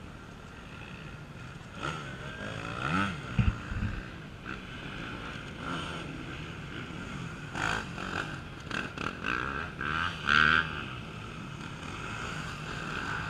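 Off-road race motorcycle engines revving, their pitch rising and falling as riders work the throttle. There is a pair of loud thumps about three and a half seconds in.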